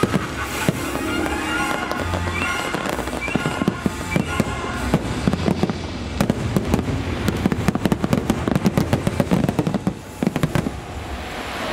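Aerial fireworks going off over the show's music soundtrack. From about four seconds in comes a rapid, dense barrage of sharp bangs and crackles, which stops abruptly near the end.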